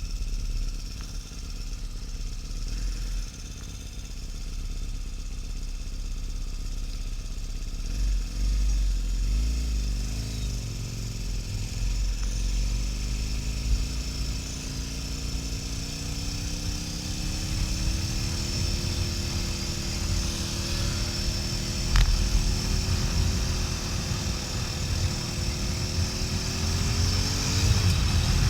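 2009 Harley-Davidson XL1200N Nightster's air-cooled V-twin running on the road, under a steady low wind rumble on the microphone. The engine note rises about a third of the way in as the bike accelerates, holds steady, then dips briefly near the end.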